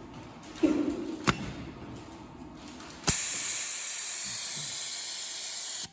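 Semi-automatic USB cable soldering machine working: a mechanical clunk and a sharp click from its moving parts, then, about three seconds in, a loud steady hiss of compressed air that starts suddenly and cuts off abruptly near the end.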